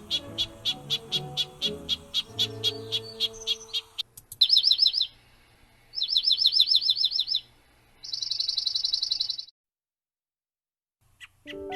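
A small songbird calling: a run of sharp high chip notes about four a second, over background music, then three separate rapid trills a second or so long, the last one buzzy. The trills are followed by a short silence.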